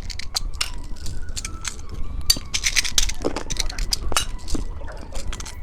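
Small plastic candy toy and its wrapping handled close to the microphone: a rapid string of little clicks, clinks and crinkles.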